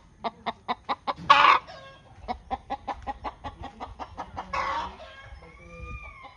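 Chickens clucking in a quick, even run of short calls, broken twice by a louder, harsher call, with a longer drawn-out call near the end.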